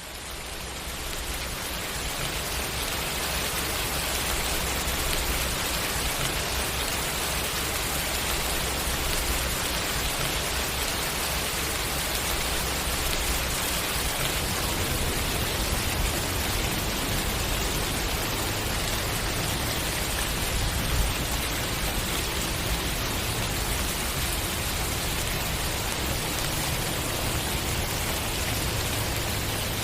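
Steady rain falling, an even dense patter. It fades in from silence over the first couple of seconds, then holds level.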